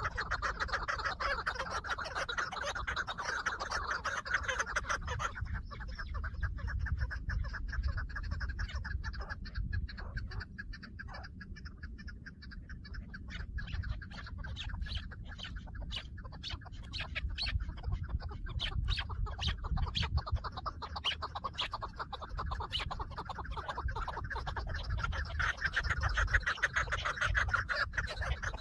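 Chukar partridges calling in runs of clucking notes over a steady low rumble.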